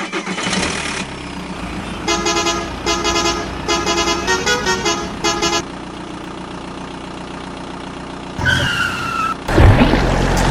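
A vehicle horn sounding a quick run of short notes that change pitch like a tune, over a low vehicle hum. Near the end a short falling tone, then a loud burst of engine noise.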